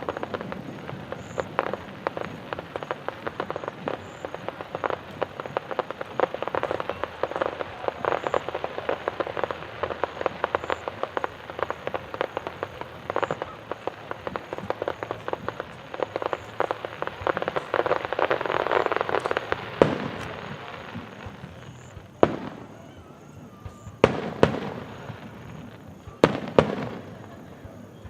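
Fireworks display: a dense, continuous crackle of many small bursts for about twenty seconds, then separate loud bangs every couple of seconds, some in quick pairs.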